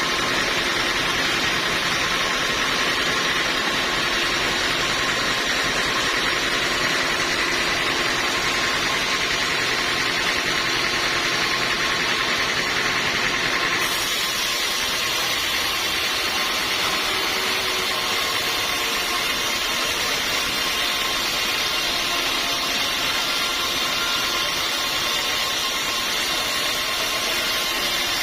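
Sawmill machinery running steadily, a continuous mechanical noise with a faint steady whine. The sound changes abruptly about halfway through.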